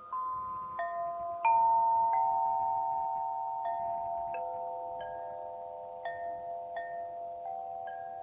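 Daiva, a suspended metallophone, struck one bar at a time in a slow melody, roughly one note every half second to second. Each note rings on long after it is struck, so the notes overlap; the strongest stroke comes about a second and a half in.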